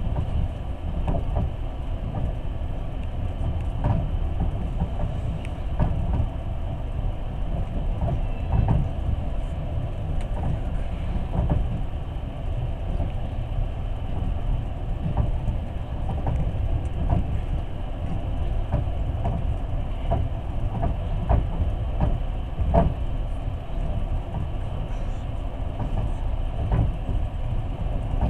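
Passenger train running along the track, heard from inside the carriage: a steady low rumble of wheels on rails with irregular knocks throughout.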